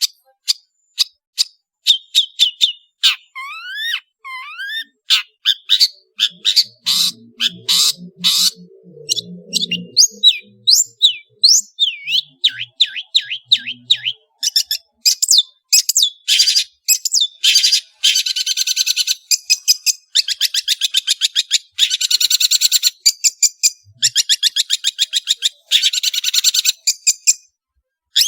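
Long-tailed shrike (cendet) singing a loud, varied song: sharp chips and quick rising and falling whistled slurs at first, then long runs of fast, buzzy trills from about halfway through.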